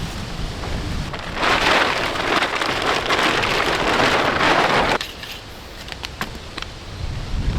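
Rain falling: a dense, loud hiss of rain that cuts off suddenly about five seconds in, followed by lighter rain with many separate drops tapping on a surface.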